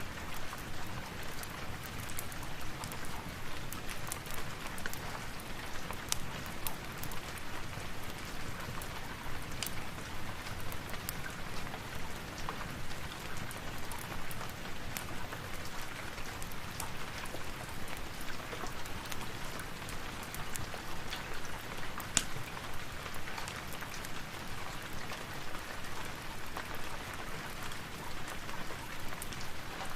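Steady rain falling, an even hiss with scattered sharp ticks of drops, one louder tick about two-thirds of the way through.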